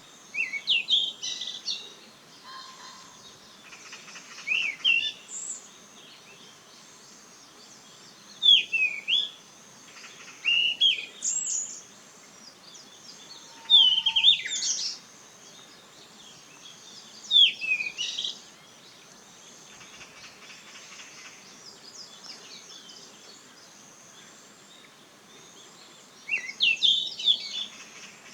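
Yellow-rumped flycatcher singing: short, high, warbled phrases of quick sliding notes, each about a second long, repeated every few seconds, about seven in all, with a longer pause before the last one.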